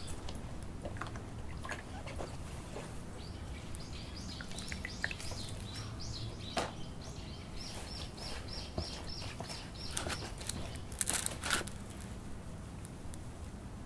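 A bird sings a rapid series of short, evenly repeated high chirps for several seconds in the middle. Dry sphagnum moss being pulled apart and rustled by hand in a plastic tub gives scattered crackles, with a louder crackling burst near the end.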